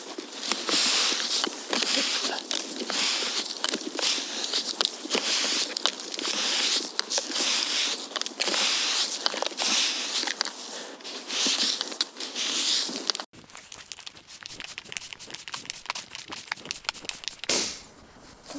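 Snow being kicked and scraped aside, a run of crunching, scraping strokes. About 13 seconds in it cuts abruptly to quieter, scattered crunches in snow.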